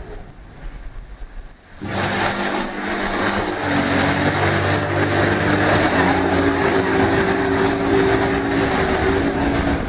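Boat motor running under way, with a rush of water and wind over it. It is quieter for the first two seconds, then comes in loudly, and its pitch rises about four seconds in as it speeds up.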